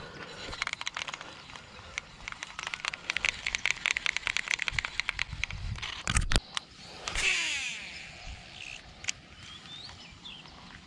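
Rapid clicking for several seconds from fishing tackle, then a knock, then a fishing reel's spool whirring and slowing in pitch as a lure is cast. Birds chirp near the end.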